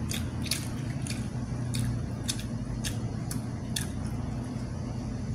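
Wet mouth clicks and smacks of someone chewing sticky rice, about two a second, over a steady low hum.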